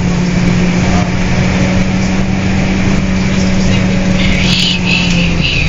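Scania K230UB city bus under way, its five-cylinder diesel running at steady revs with an even drone. A higher, pulsing whine joins about four seconds in, and the drone dips in pitch near the end.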